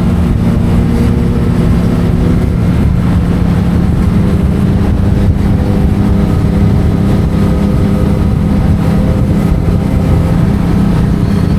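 Yamaha MT-07's parallel-twin engine through an Akrapovic titanium exhaust, running at steady revs under way, its pitch barely changing.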